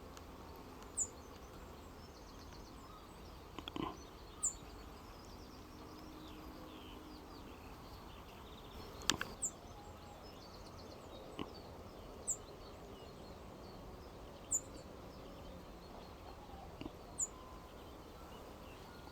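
Songbird calling over a faint outdoor background: short, thin, high notes that fall in pitch, repeated every two to three seconds, with some faint twittering from other birds. A single sharp click about nine seconds in.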